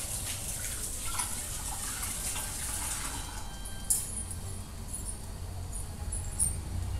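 Egg-dipped bread slices frying slowly in oil and butter in a non-stick pan: a steady sizzle with scattered small crackles, and one sharper tick about four seconds in.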